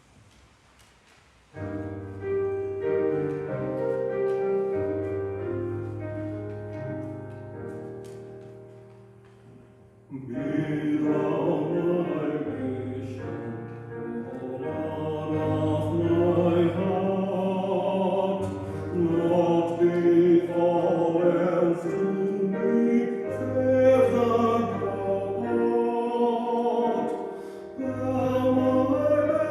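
A hymn begins: a keyboard plays a short introduction of held chords that fades away, then, about ten seconds in, a small group of singers comes in, singing the hymn with the accompaniment.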